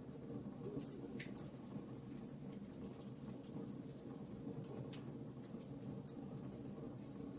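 Wood fire burning in a fireplace, crackling with scattered sharp pops and snaps over a steady low background noise.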